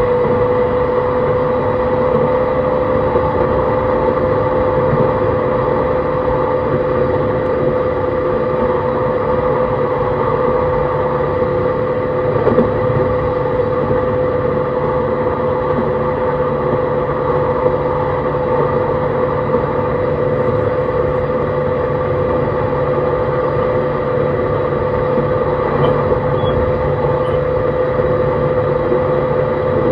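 E131 series electric multiple unit running at a steady speed, heard on board: a steady, even mid-pitched whine from its traction drive (Hitachi hybrid SiC inverter and motors) over continuous wheel-and-rail running noise.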